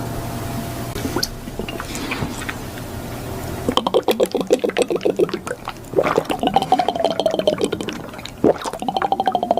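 Iced coffee being drunk close up to an ASMR microphone: rapid wet gurgling and slurping liquid sounds in three stretches. These follow a few seconds of steady hiss.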